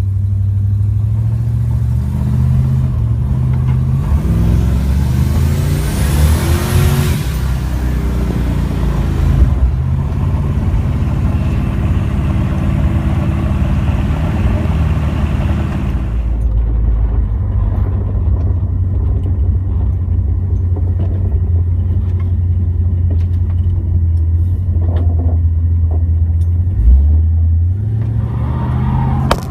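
Twin-turbocharged 1972 Plymouth Valiant engine under way on the road: its pitch climbs for several seconds under acceleration, with a high rising whistle near the peak, then it runs steadily at cruise. Near the end the pitch drops suddenly and climbs again.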